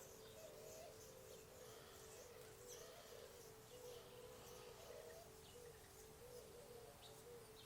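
Faint, scattered high chirps of small birds over a steady faint hum.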